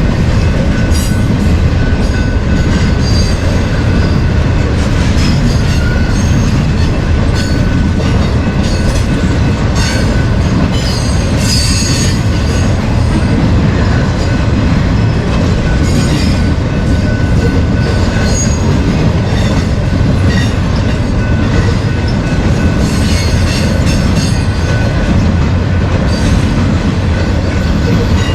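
Loud freight train cars rolling past: a steady heavy rumble of steel wheels on rail, with repeated clicks and short squeals from the wheels.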